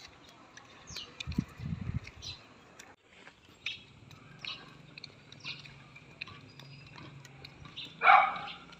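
Outdoor ambience with short, high bird chirps repeating. There are a few low thumps about a second and a half in, and a brief louder sound about eight seconds in.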